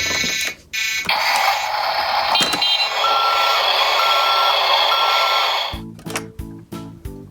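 A short electronic tone, then a steady hiss with three short beeps about a second apart, like a reversing alarm. Near the end a bouncy tune with a bass line starts in short stop-start phrases.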